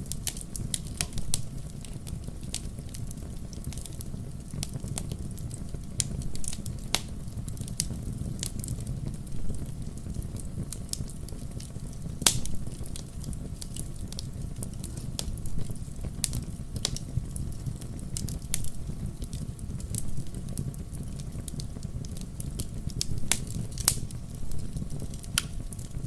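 Wood campfire crackling: irregular sharp pops and snaps, a few louder than the rest, over a steady low rumble of burning.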